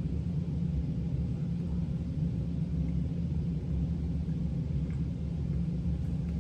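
Steady low rumble, with a constant hum in the bass and nothing else standing out.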